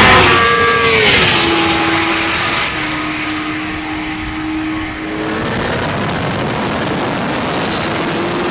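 A 2008 Kawasaki ZX-10R's inline-four engine at speed on a racetrack. Its note drops in pitch over the first second or so, then holds a steady tone. About five seconds in it changes abruptly to a rougher mix of engine and wind noise.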